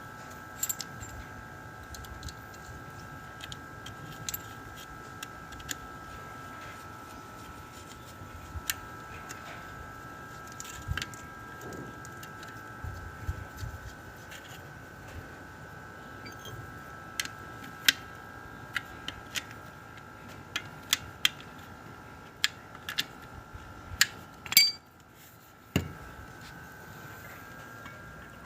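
Sharp metallic clinks and taps of hand tools and small metal parts being handled, scattered irregularly over a steady high-pitched hum. The loudest clatter comes near the end, when the hum briefly stops.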